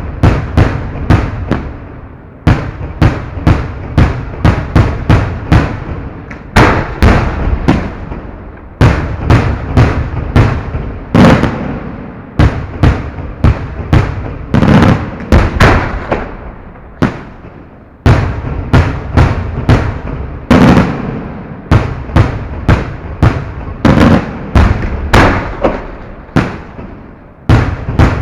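Fireworks display heard close to the firing site: shells bursting in rapid succession, several loud blasts a second, each booming and echoing away, with a few brief lulls between volleys.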